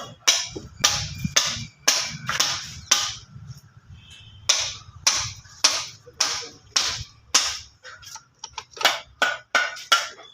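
Repeated sharp knocks, about two a second, turning into quicker, smaller taps near the end, over a steady low rumble.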